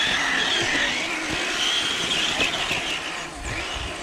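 Electric motor and gear drive of a scale RC crawler truck whining, rising and falling in pitch as it is throttled, with scattered knocks from the truck working over rock. The whine eases off about three seconds in.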